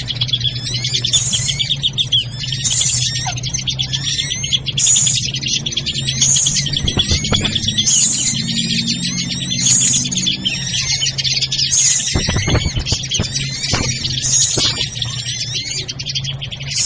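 Bird-lure recording of drongos (srigunting) calling noisily: a dense chatter of high chirps, with a louder burst of sharp calls about every two seconds, over a steady low hum.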